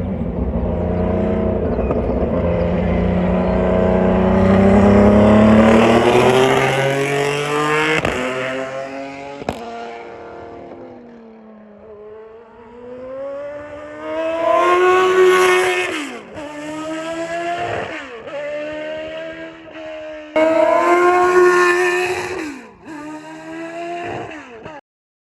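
Formula One car engine at high revs passing by, loudest about five seconds in and then fading away. Later it is heard again accelerating, its pitch climbing and dropping sharply at each gear change, until the sound cuts off near the end.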